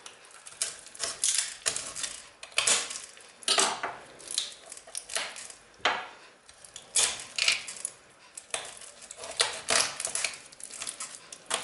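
A raw wild partridge being split in half with a blade: irregular sharp clicks and knocks as it cuts through the carcass and taps the work surface.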